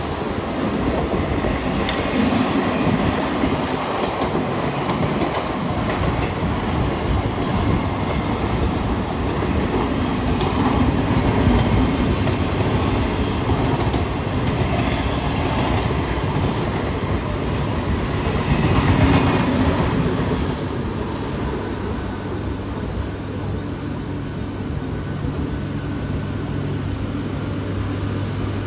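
Mumbai suburban local train, an electric multiple unit, running on the rails with a continuous rumble of wheels and track. About three-quarters of the way through, the rumble eases and a steady low hum remains.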